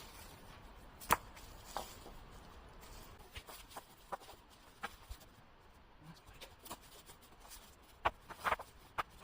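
Scattered sharp knocks and clicks, as of stones and wood being handled and set down. A clear knock comes about a second in and a cluster of knocks near the end.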